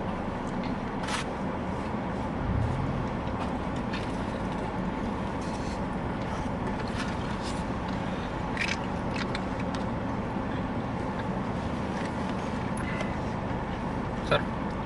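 Steady hum inside a car's cabin, with a few faint clicks.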